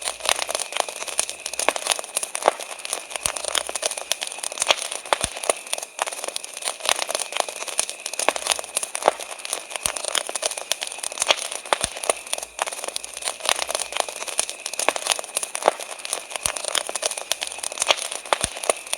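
Wood fire crackling steadily, with many sharp pops and snaps several times a second over a constant hiss.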